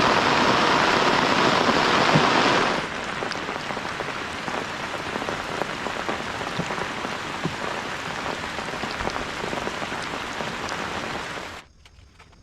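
Heavy rain, a dense, loud hiss that suddenly drops to a lighter, quieter patter with separate drops about three seconds in. Near the end it cuts off abruptly to a much quieter background.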